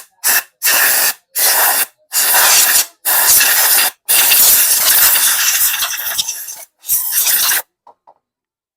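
Compressed-air blow gun hissing in repeated blasts, blowing brake dust out of a motorcycle's rear brake drum. The first blasts are short and the later ones longer, the longest about two and a half seconds, and they stop near the end.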